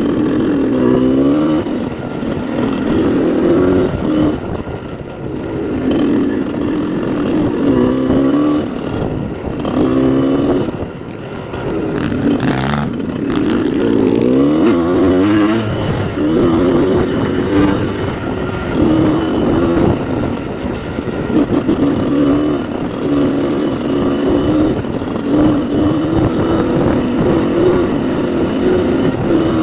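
Dirt bike engine revving, its pitch climbing and dropping again and again as the throttle is worked.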